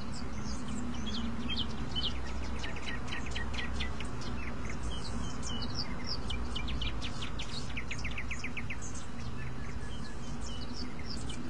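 Small birds chirping and twittering in quick runs of short chirps, over a steady low hum of background noise.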